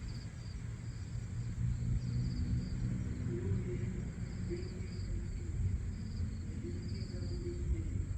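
Outdoor night ambience: insects chirring, with a steady high trill and short chirps repeating every half second or so, over a constant low rumble.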